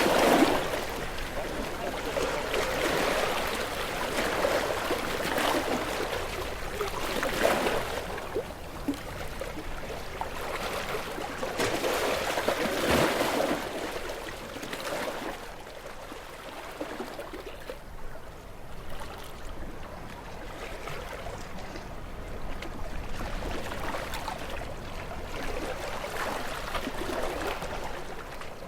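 Sea waves washing against shore rocks, surging and draining back every few seconds. The surges are louder in the first half and ease off after about halfway.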